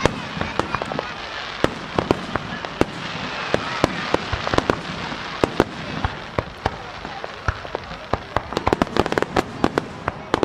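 Starmine fireworks barrage: many aerial shells bursting in quick, irregular succession, sharp bangs over a continuous crackle. The bangs come thicker near the end.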